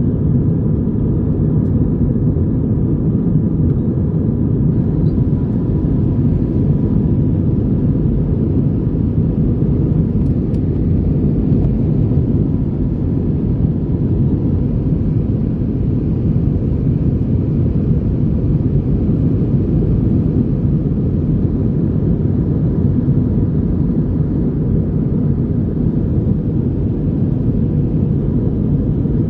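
Steady low rumble of engine and airflow noise inside the cabin of an Airbus A321-200 in flight.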